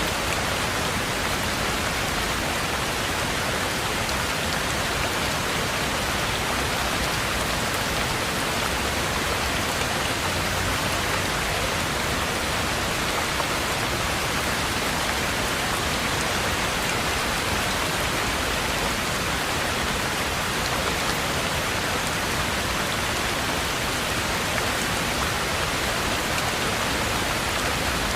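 Steady heavy rain falling on a roof and surroundings, an even dense hiss without pauses or distinct drops.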